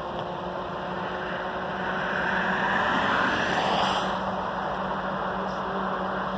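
Distant Canadian National diesel freight train approaching: a steady rumble and rushing noise with a faint low hum, swelling for a couple of seconds in the middle.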